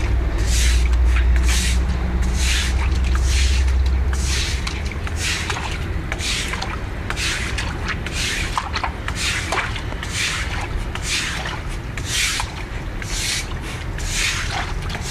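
Broom strokes sweeping water across a wet floor, repeated brushing scrapes a little under two a second. A low hum runs under them for the first four seconds or so.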